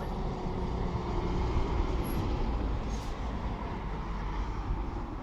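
A passenger train running at the station platform: a steady rumble, with a faint brief high squeal about two seconds in.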